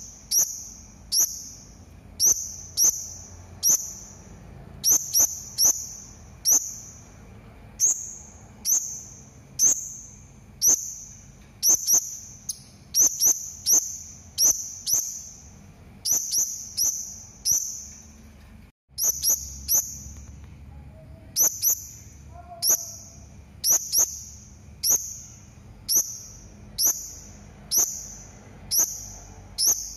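Serindit (hanging parrot) giving a long run of short, shrill, high-pitched calls, about one to two a second, each a quick note sliding down in pitch. The run breaks off for a moment about two-thirds of the way through. These are lure calls, used to make other serindit answer.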